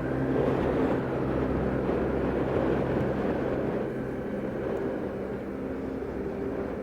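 Motorcycle engine running steadily on the move, a low steady tone under a noisy rush of road and wind sound, easing off a little about four seconds in.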